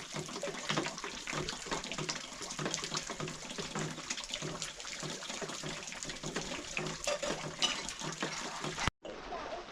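Water running and splashing, a steady rush dotted with many small clicks.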